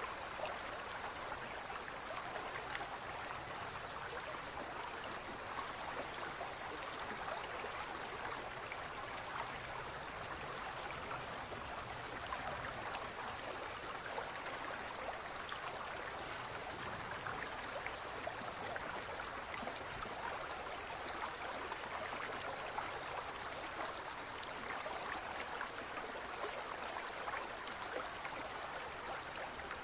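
Water flowing and trickling steadily, with a constant splashing hiss.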